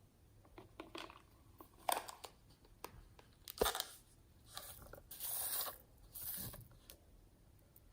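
Close-up handling of makeup items and slime ingredients: a string of sharp clicks and crunchy crackles, then two longer crinkly scraping sounds about five and six seconds in.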